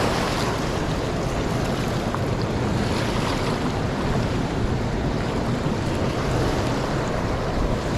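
A swollen, fast river rushing steadily.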